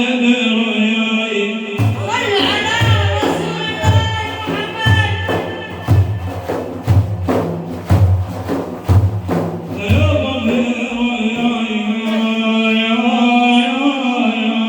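Men chanting a religious praise song (madeeh) for the Prophet. About two seconds in, drums come in with a steady low beat under the singing, then drop out about ten seconds in while the chant goes on.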